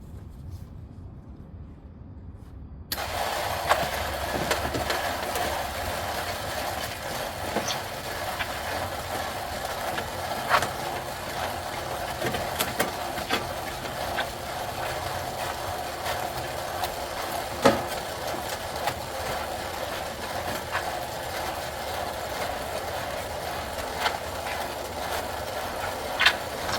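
A concrete mixer switches on about three seconds in and runs steadily, churning a batch of concrete, with a few sharp knocks along the way.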